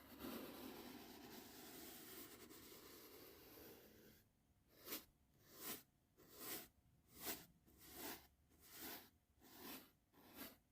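Faint swishing of soft brush strokes in ASMR face and head brushing. For about four seconds the brushing runs together into one continuous swish, then it breaks into separate strokes, about eight in a row a little under a second apart.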